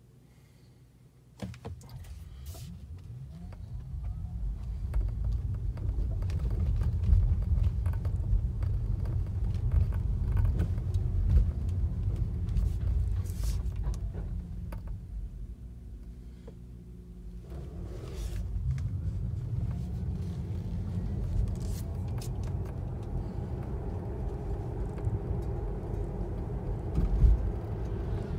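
Tesla Model 3 on the move: low road rumble with scattered sharp crackling clicks, the unexplained crackling noise the owner is recording. The rumble fades partway through and then builds again, and a louder knock comes near the end.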